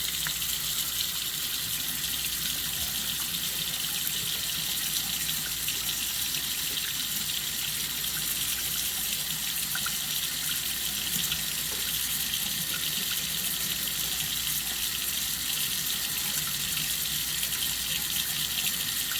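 Kitchen sink hot-water faucet running in a steady, even stream into the sink. The hot water is being run to see how soon it warms up.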